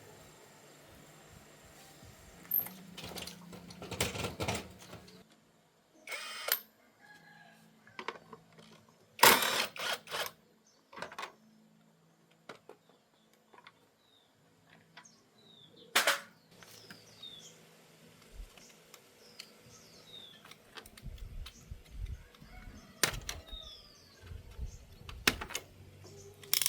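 Scattered sharp knocks and clatter of metal engine parts and tools being handled, with small birds chirping in the background.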